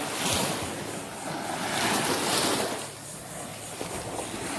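Gulf surf breaking and washing up the beach, swelling twice, with some wind on the microphone.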